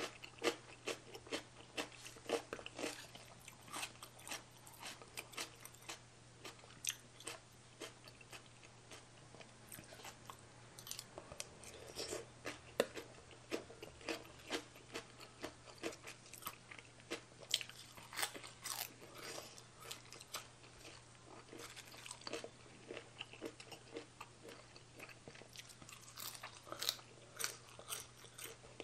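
A person chewing and crunching mouthfuls of spicy baby cuttlefish salad with raw vegetables, a continuous, irregular run of wet mouth clicks and crunches.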